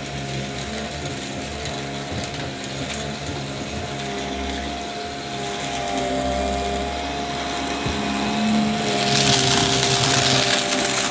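Upright vacuum cleaner running with a steady motor whine while crunchy debris crackles through it. About eight seconds in the rushing sound grows louder.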